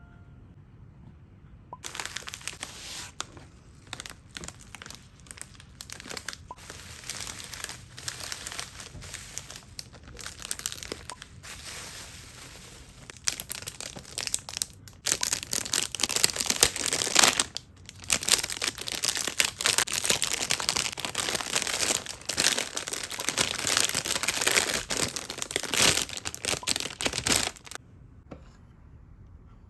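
Packaging being unwrapped by hand: a dense run of crinkling starts about two seconds in, gets louder about halfway through, and stops a couple of seconds before the end.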